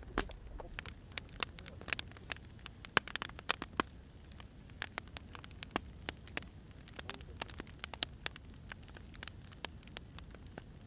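Burning firewood: irregular sharp crackles and pops over a low steady rumble of the fire, the pops coming thickest in the first few seconds.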